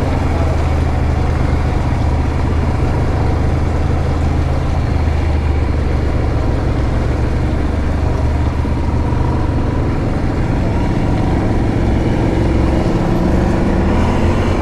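Yamaha Grizzly 700 ATV's single-cylinder engine running steadily while riding, rising in pitch near the end as it speeds up.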